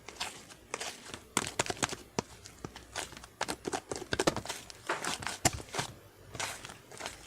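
Slime being squished and worked by hand, making an irregular run of quick sticky clicks and pops.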